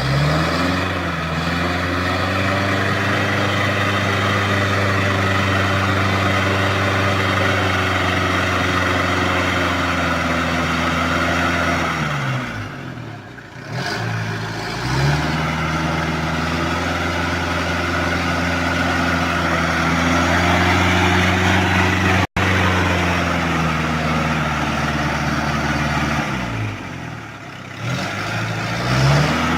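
Daihatsu Taft 4x4 engine revving hard and held at high revs for long stretches. It eases off twice and revs up again as the vehicle struggles to climb a slippery, rain-soaked dirt road.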